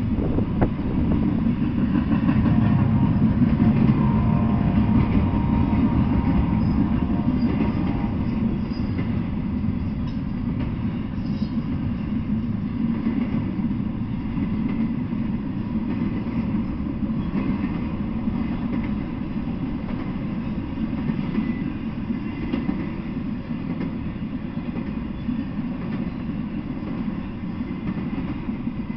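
Double-stack intermodal freight train rolling past: a steady rumble of the well cars' wheels on the rails, loudest a few seconds in.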